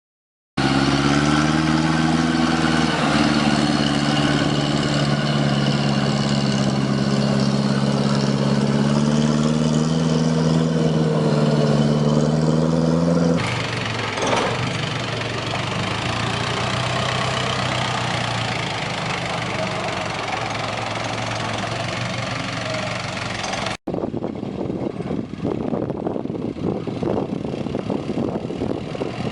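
Truck engine running, its pitch wavering slightly. The sound changes abruptly twice: about 13 seconds in to a quieter, rougher engine sound, and after a brief dropout near 24 seconds to a noisier, uneven rumble.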